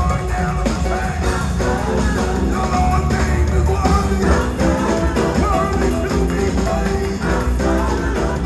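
Live gospel music from a full band with a heavy bass line, with singing carried over it.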